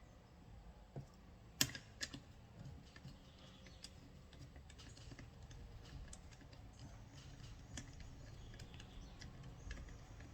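Scattered light clicks and taps of metal parts and hand tools being handled while a starter motor is put back together, with one sharper knock about a second and a half in.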